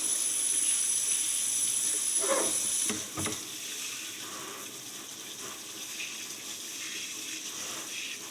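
Kitchen tap running into a sink while the water is left to run hot. The flow drops off after a knock about three seconds in, then runs on more quietly.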